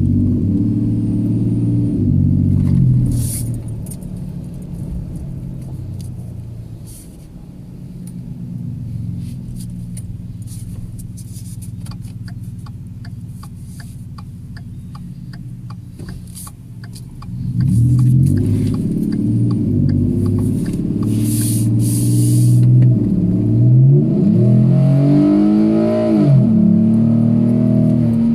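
2013 Ford F-150's 3.7-liter V6 running through a Flowmaster Super 40 dual exhaust, heard from inside the cab while driving. It is loud under throttle at first, eases to a quieter cruise with some light ticking, then accelerates hard from about two-thirds through, its pitch climbing and dropping with the upshifts.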